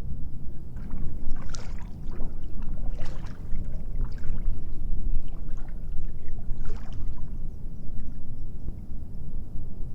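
Water splashing and trickling beside a kayak, in irregular splashes a few times, over a steady low rumble.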